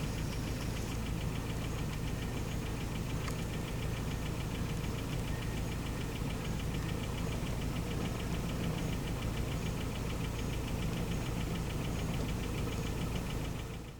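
Pickup truck engine idling steadily, with a fast, even ticking clatter over the low engine sound.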